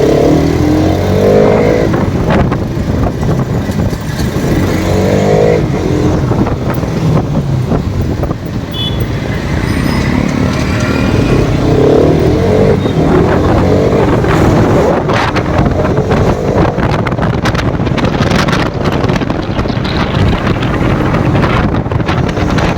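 Motorcycle engine running while riding, with its pitch sweeping up several times as it revs through the gears, under heavy wind noise on the microphone.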